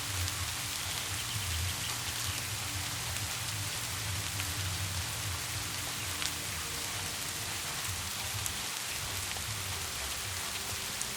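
Steady rain falling, with single drops ticking now and then, over a faint, low, sustained music drone; a few more notes of the music come in near the end.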